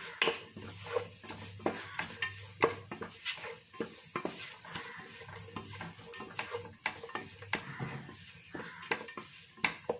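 Vegetables in sauce being stirred in a frying pan: a light sizzle under irregular clicks and scrapes of the spatula against the pan.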